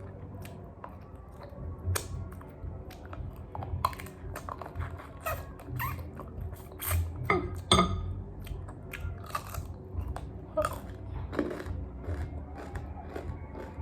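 Irregular clicks, knocks and small clinks of objects being handled, with one sharper ringing clink about eight seconds in.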